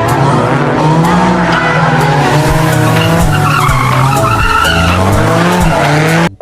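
Car engine revving up and down in pitch, with tyre squeal over it; it cuts off abruptly near the end.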